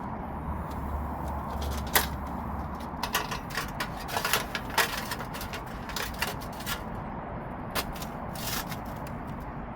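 Camping kit being handled: a scattered series of sharp clicks and knocks, the loudest about two seconds in and most of them bunched in the middle, over a steady outdoor hiss.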